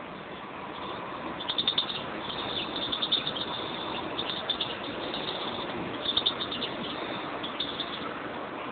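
European greenfinches chirping in short, rapid twittering bursts that come every second or two, over steady background noise.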